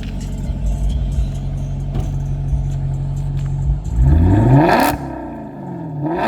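Maserati GranTurismo V8 idling steadily, then revved hard twice: a longer blip about four seconds in and a shorter one near the end, each rising and falling quickly. Really loud.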